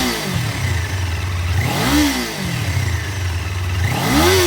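2024 Kawasaki Ninja 500 SE's parallel-twin engine on its stock exhaust, revved hard at standstill: the pitch climbs and falls back three times, about every two seconds.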